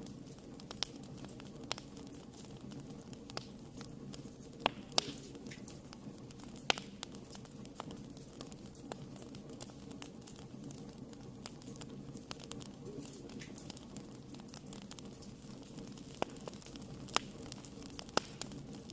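Fire burning in a fireplace: a steady low rush with scattered sharp crackles and pops, a few of them louder.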